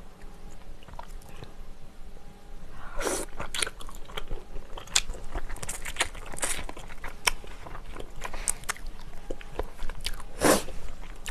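Close-miked eating: biting and chewing pork pulled off the bone from a spicy pork-bone soup, with wet mouth clicks and crunching. Two louder, longer wet sounds come about three seconds in and near the end.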